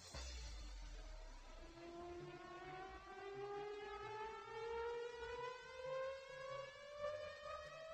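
A single pitched tone with overtones, gliding slowly and steadily upward in pitch, over a faint low pulse.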